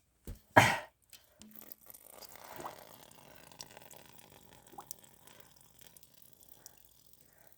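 A sharp clunk about half a second in, then cooling water trickling and dripping as it is drained from a power tiller's water-cooled engine so that it won't freeze.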